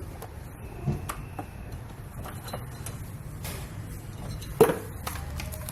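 Handling noise from the refrigerator compressor job: a few light knocks and clicks, with one louder knock about four and a half seconds in, over a steady low hum.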